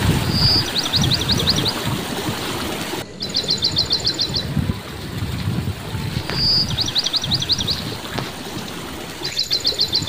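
A bird singing the same phrase four times, about every three seconds: a short high note followed by a quick trill of about eight rising chirps. Under it runs a steady rush of water from a small stream.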